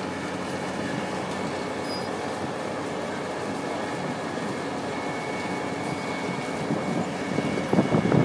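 Wirtgen cold milling machine at work planing asphalt: a steady mechanical din of engine and milling drum. A thin high whine joins about halfway, and the noise turns louder and uneven near the end.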